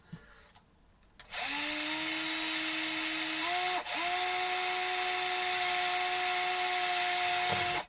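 Power drill boring a hole into a camper's delaminated plywood floor. It starts about a second in, stops and restarts briefly near the middle, then runs steadily until it stops at the end.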